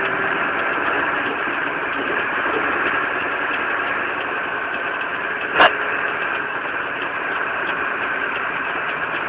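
Fire engine running steadily, with one short sharp click a little past halfway.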